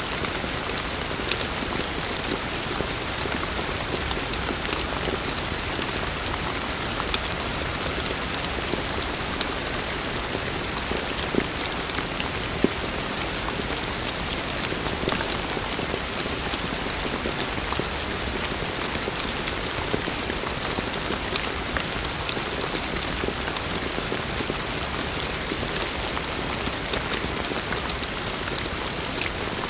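Heavy rain falling steadily, with a dense hiss and many individual drops ticking on hard surfaces; a couple of louder drops stand out about 11 and 12 seconds in.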